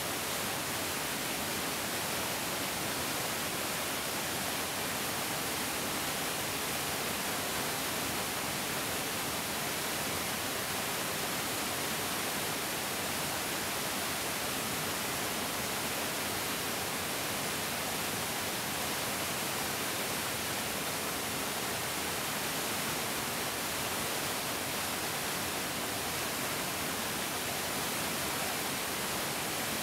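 Mountain stream rushing steadily over rocks, a continuous even hiss of flowing water.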